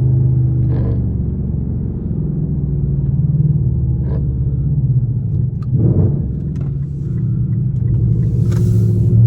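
Straight-piped Infiniti M56's 5.6 L V8 exhaust, a steady low drone at an even engine speed, with a brief swell about six seconds in.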